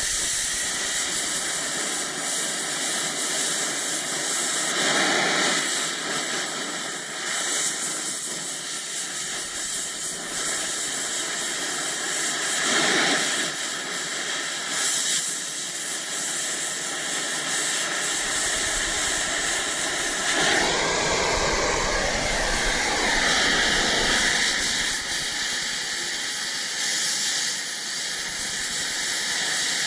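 Steady hissing from a metalworking torch on steel, swelling louder a few times.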